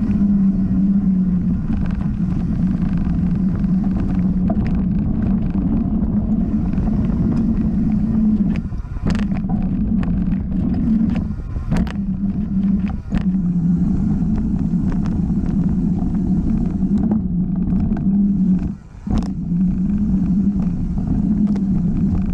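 Mountain bike running fast down a dirt flow trail: steady wind rush over the microphone and tyre rumble, with a few brief drops and sharp clatters from the bike over bumps.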